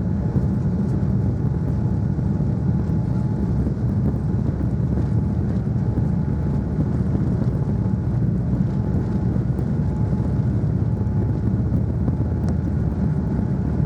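Steady cabin noise inside a Boeing 787-9 airliner: an even, low rumble of engines and airflow that does not rise or fall.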